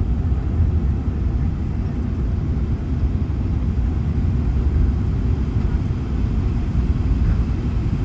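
Airbus A380 cabin noise: a steady low rumble of the aircraft on its approach or landing roll.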